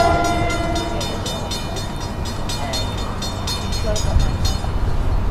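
NJ Transit Arrow III electric multiple-unit train approaching the station, finishing a horn chord about a second in. A rapid high ticking follows, about four or five a second, stopping about four and a half seconds in, while the low rumble of the train grows.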